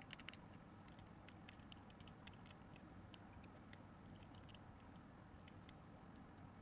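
Faint, irregular clicking and crunching of small animals feeding or foraging, a few ticks a second, over a low steady hum.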